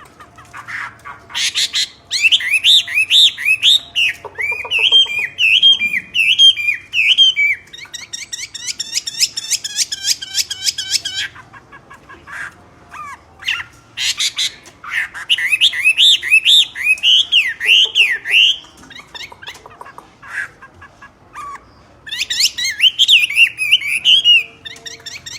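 Myna bird calling loudly: bouts of rapid, rising-and-falling whistled notes, broken by a harsh, grating stretch and scattered clicks.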